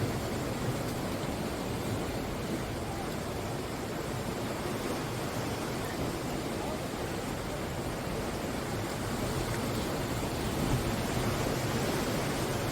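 Sea waves breaking and washing up the shore, a continuous rushing that swells a little about ten seconds in.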